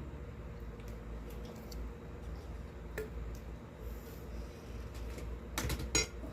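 Glass handling: a single light tap about halfway through, then a quick cluster of knocks with a brief glassy ring near the end, as a whiskey bottle and a shot glass are handled on a table.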